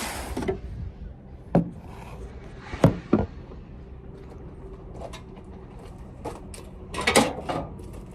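Sharp knocks and clanks on car body sheet metal as a spot-welded panel is worked free with hammer, chisel and prying. The knocks are irregular, spaced a second or more apart, with a louder cluster about seven seconds in.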